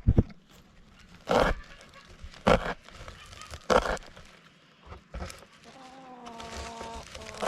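A few short, sudden rustling or knocking sounds, then a drawn-out animal call lasting about a second near the end.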